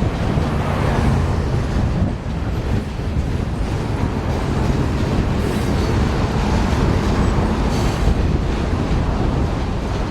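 A train passing close by: a loud, steady rumble of wheels on rail with a low engine drone underneath.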